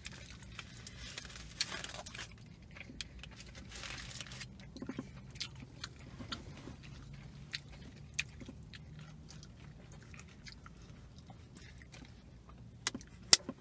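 Close-up eating sounds: chewing and biting into a chicken burrito and shrimp tacos, with wet mouth noises and many small clicks. Sips from a plastic water bottle at the start and near the end.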